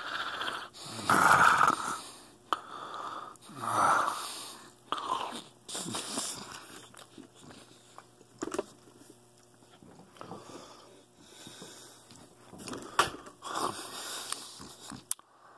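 A man chewing a mouthful of juicy blood orange close to the microphone, with wet mouth noises and several loud, breathy exhales in the first half. A few sharp clicks come in the second half.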